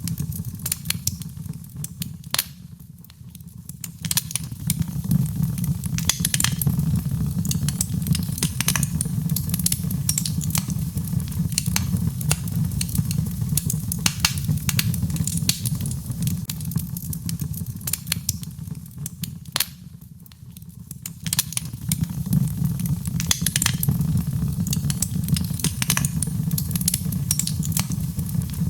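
Birchwood fire burning in a fireplace, crackling and popping irregularly over a steady low rumble. It dies down briefly twice, about 3 seconds in and again about two-thirds of the way through.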